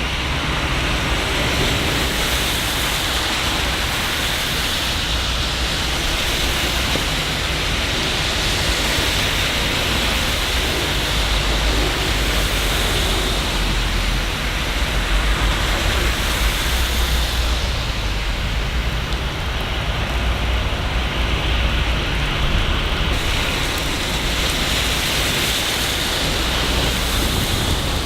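Steady heavy rain falling, an even hiss, with a continuous low rumble beneath it.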